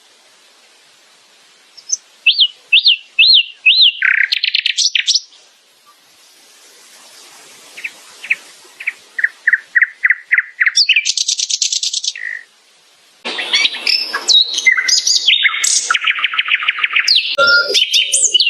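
Nightingale singing in separate phrases with short pauses between: a run of four rising-and-falling whistled notes, a series of quick repeated notes speeding up, then fast trills and dense rapid phrases near the end.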